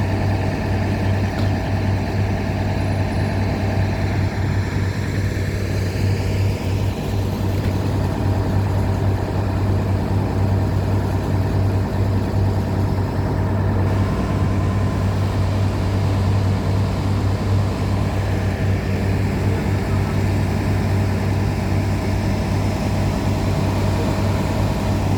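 Boat engine running at a steady speed under way: an even, deep hum that holds unchanged throughout.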